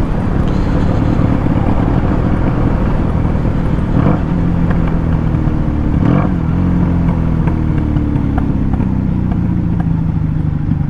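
1996 Honda Magna 750's V4 engine running at low speed through its loud exhaust, the pitch easing slowly down as the bike slows. There is a short swing in pitch about six seconds in.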